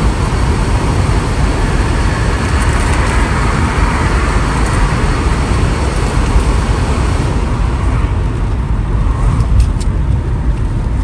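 Steady road and engine noise heard inside a moving car on a rain-wet road, a low rumble under a hiss of tyres and rain; the hiss eases about seven seconds in.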